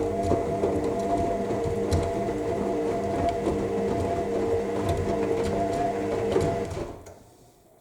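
AEG 7000 Series washing machine tumbling its drum in the main wash: the motor hums steadily with water sloshing and small knocks from the load. About seven seconds in the motor winds down and stops as the drum pauses between tumbles.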